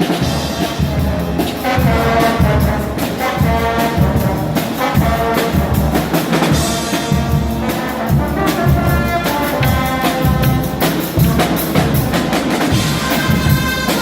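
Guggenmusik band playing loudly: massed brass blaring held notes and short phrases over a steady, pounding drum beat.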